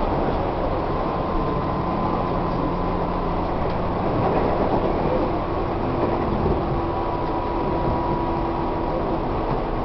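Running noise heard inside a Tobu 1800 series electric train car at speed: a steady rumble of wheels on rail, with faint steady tones from the running gear.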